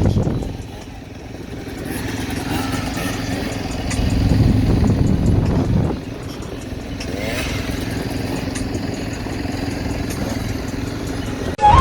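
Dirt bike engines running, growing louder about four seconds in and dropping back near six seconds.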